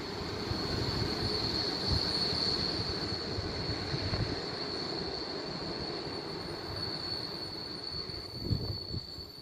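Passenger train moving away along the tracks: a steady high-pitched squeal over a low rumble, both fading as it recedes. A few low thumps near the end.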